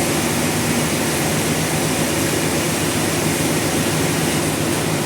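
Sawmill machinery running, a loud, steady mechanical drone with an even low hum that does not change.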